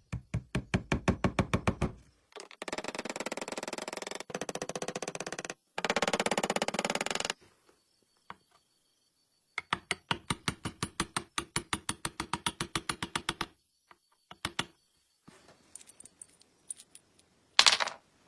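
Old household sewing machine running in several short bursts, its mechanism clicking rapidly at about eight to ten strokes a second. Between and after the runs come a few single knocks and one sharp clack near the end.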